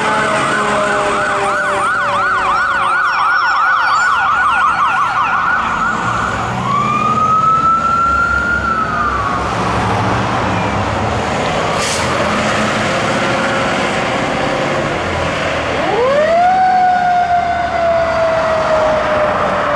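Sirens of a fire engine and an ambulance responding, over vehicle engine noise. A fast yelp sounds over a slowly falling wail, then gives way to wails that rise and slowly fall, one starting again near the end. There is a single sharp click about halfway through.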